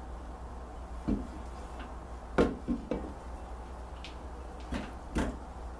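A handful of separate knocks and light clunks of hard objects being handled, the loudest about two and a half seconds in, over a steady low hum.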